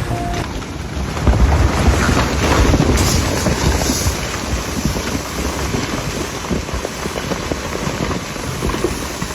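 Heavy storm downpour pelting down as a dense patter of many small impacts, with wind rumbling on the microphone.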